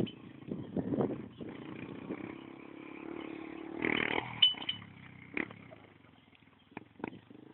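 Motocross bike engine running, with a louder burst about four seconds in before it fades away.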